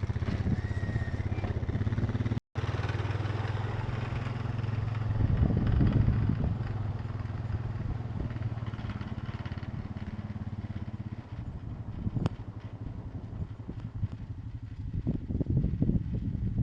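An engine running steadily with a low hum, which drops away about eleven seconds in. A single sharp click follows, and there is gusty rumbling near the end.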